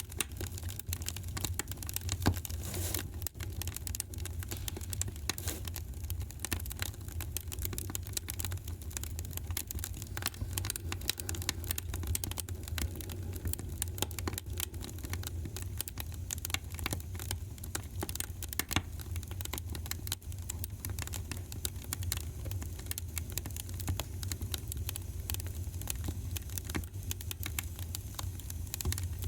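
Wood fire in a fireplace crackling and popping, with many irregular small cracks every second over a steady low rumble of the flames.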